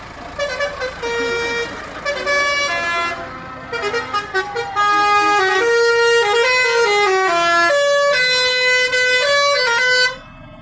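A vehicle's musical horn playing a tune: a loud run of held notes stepping up and down in pitch, cutting off suddenly about ten seconds in.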